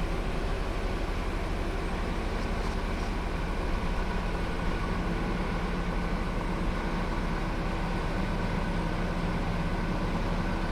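Tracked MSN-10 GTMM forestry mulcher running with a steady, unchanging engine drone.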